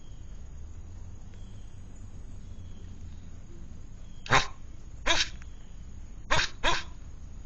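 A dog barking: four short, sharp barks, the last two close together.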